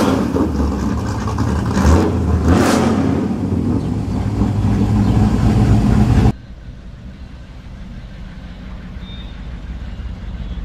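Car engine running loudly, with a couple of brief surges about two seconds in. It cuts off suddenly about six seconds in, leaving a quieter low rumble.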